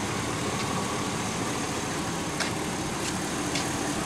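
2005 Chevy Suburban's 6.0-litre V8 running steadily, with a few faint clicks; the owner says it runs perfectly at about 120,000 miles.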